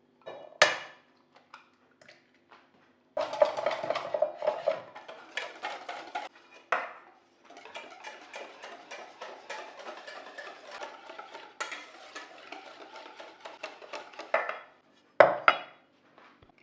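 Household handling sounds of dishes and utensils clinking, knocking and scraping, with sharp knocks about half a second in and near the end and longer stretches of busy clatter between.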